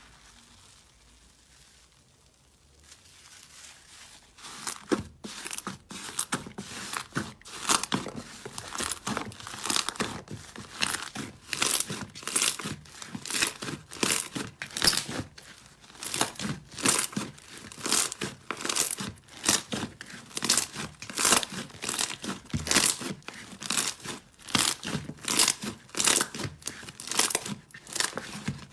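Slime being squeezed and stretched by hand, giving a dense crackling and popping that starts a few seconds in and comes in repeated surges, about one or two a second.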